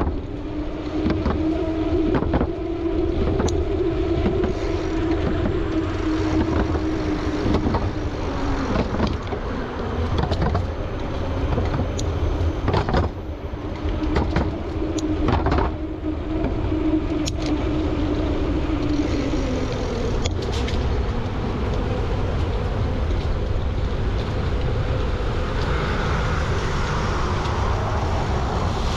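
Road traffic passing on a main road, with wind rumbling on the microphone.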